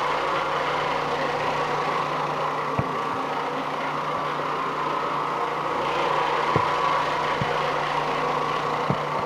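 Oreck Orbiter floor machine running steadily, its nylon carpet brush scrubbing the carpet pile with an even hum, with a few light knocks as it is moved.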